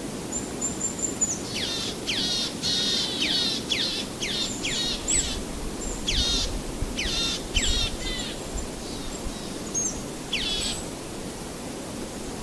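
A bird calling: clusters of quick chirps, each falling steeply in pitch, over a steady low background rush.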